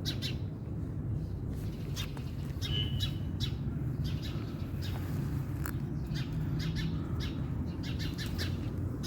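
Small birds giving short, sharp chirps over and over, alarm calls protesting at a cat. Under them runs a steady low rumble.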